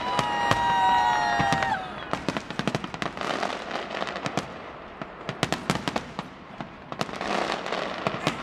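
Fireworks display: a rapid, irregular run of sharp bangs and crackles from bursting aerial shells. A few steady high tones are held through the first two seconds, dipping slightly before they stop.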